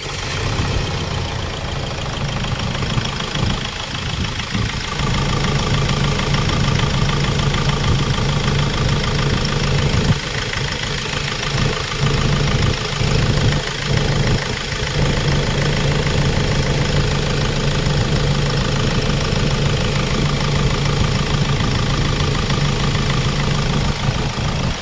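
Hyundai Starex diesel engine idling steadily just after starting, with a freshly replaced fuel injector and a newly bled fuel line.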